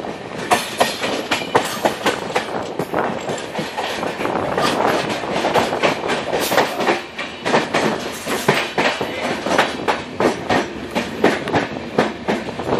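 Passenger train coach running along the track, its wheels clacking over the rail joints several times a second over a steady rushing noise, heard from an open coach door or window.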